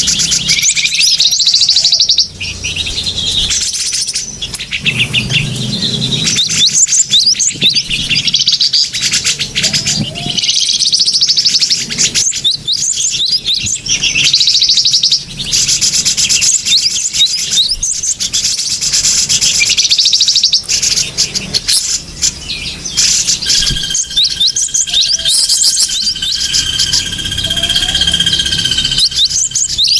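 Bird-lure recording of small birds chirping and twittering in a dense, unbroken run of rapid calls. A steady held whistle joins in about three-quarters of the way through.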